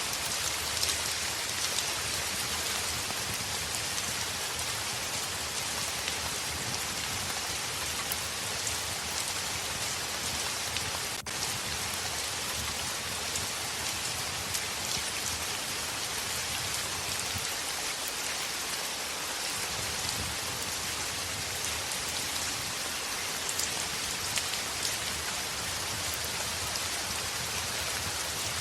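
Heavy rain falling steadily on a window, an even hiss of many drops with a momentary dip in level about eleven seconds in.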